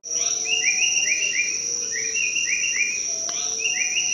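Japanese paradise flycatcher calling: short phrases of three or four quick notes, repeated about every second and a half, over a steady high insect buzz.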